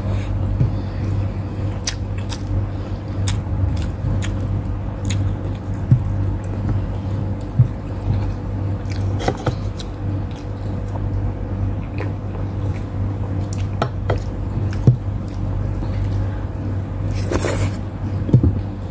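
Close-up eating sounds: chewing and mouth smacking with many small wet clicks and a few sharper ticks, as chicken and rice are eaten by hand, over a steady low hum.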